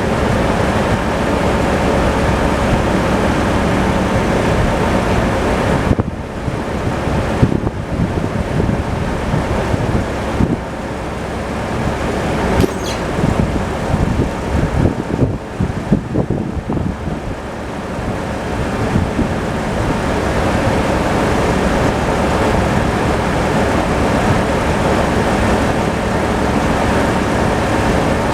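Tractor engine running steadily. For a stretch in the middle the drone dips and is broken by irregular knocks and clatter.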